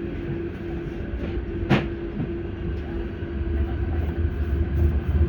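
Auckland Transport AM class electric multiple unit running between stations, heard from inside the carriage: a steady low rumble of wheels on rail with a constant hum, a single sharp click just under two seconds in, and the rumble growing louder near the end.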